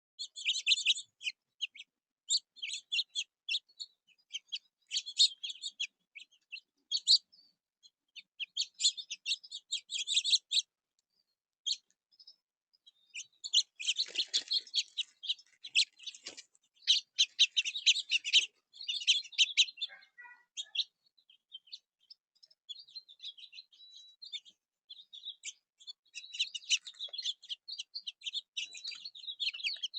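Small songbirds at a backyard feeder chirping and calling in rapid high-pitched clusters, with short pauses between bursts.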